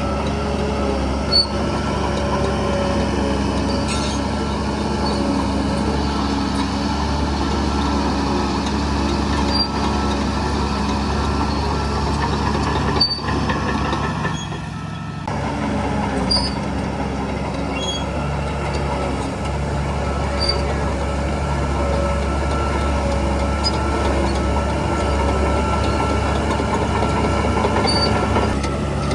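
Shantui DH17C3 crawler bulldozer's diesel engine running steadily under work, a constant hum with higher whining tones over it and a few sharp metallic clicks, easing briefly about halfway through.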